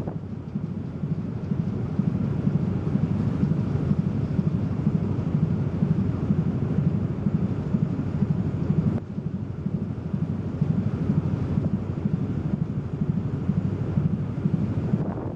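Wind buffeting the microphone aboard a car ferry under way, a steady fluttering rumble that dips briefly about nine seconds in.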